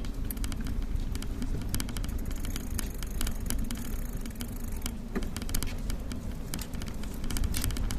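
Steady low rumble of riding a bicycle, wind and road noise, with scattered sharp clicks and rattles throughout.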